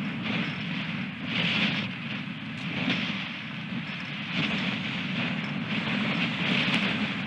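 Storm wind gusting over the microphone: a steady low rumble under a rushing hiss that swells and eases every second or two.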